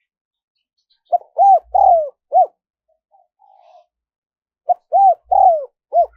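Spotted dove cooing: two phrases of four short, arching coos each, about three and a half seconds apart.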